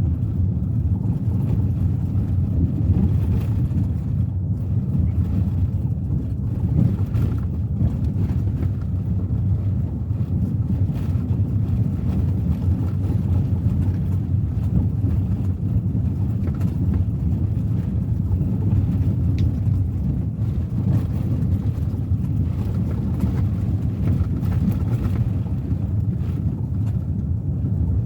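Steady driving noise of a Suzuki Ertiga 1.4 car cruising: a low, even rumble of engine and tyres on the road, without any change in pitch or level.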